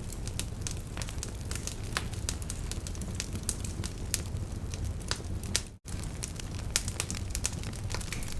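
Wood fire crackling, irregular sharp pops over a low steady rumble. The sound cuts out for a split second a little past halfway.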